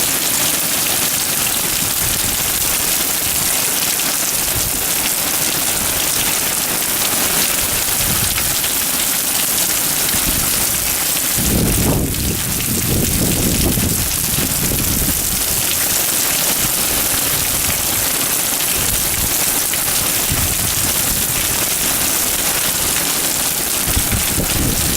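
Heavy typhoon rain pouring down in a steady hiss, with a low rumble swelling for a couple of seconds about halfway through.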